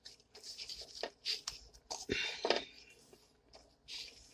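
A person chewing a mouthful of syrup-topped French toast close to the microphone: irregular short smacks and clicks with brief pauses between them.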